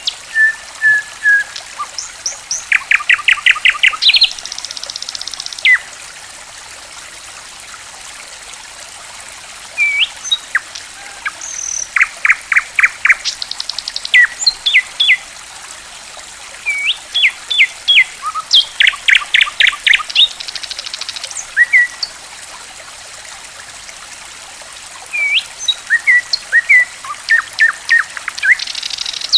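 Songbird calling in repeated bouts of sharp whistled notes and fast rattling trills, with quieter gaps of a few seconds between bouts. Under it runs a steady trickle of flowing water.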